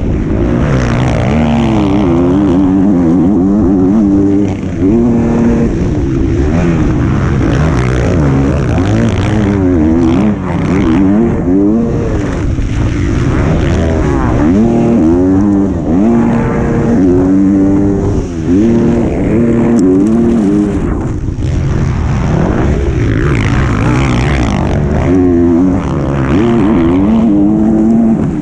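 Motocross bike engine heard from on board, revving hard and repeatedly sweeping up and down in pitch through gear changes, with a few brief drops where the throttle is shut off.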